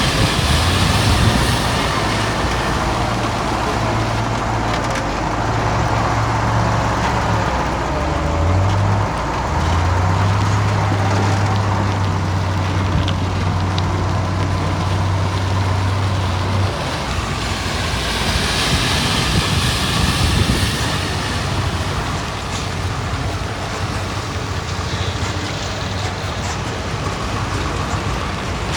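Crawler bulldozer's diesel engine running, a steady low drone that steps up in pitch about nine seconds in and drops away around seventeen seconds, over a continuous rumble of heavy machinery.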